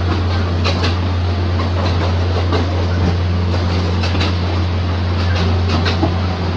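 Ex-JR 203 series electric multiple unit running along the track: a steady low rumble and hum, with irregular clacks from the wheels on the rails.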